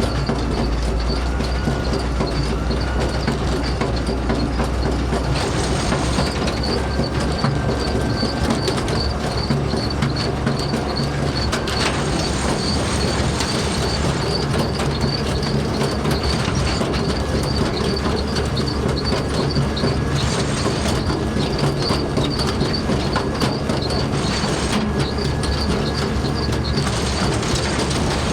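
Farm machinery running steadily, with a low rumble and a rapid, regular high-pitched squeak or tick from its moving parts.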